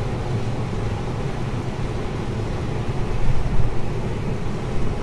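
Combine harvester running while harvesting corn: a steady low drone of engine and machinery, with a short louder patch about three seconds in.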